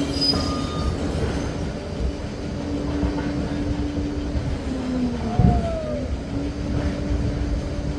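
Liebherr PR 746 Litronic crawler dozer working, its diesel engine running steadily with rumbling track noise. A last reversing-alarm beep sounds just after the start, and a heavy thump with a brief falling squeal comes about five and a half seconds in.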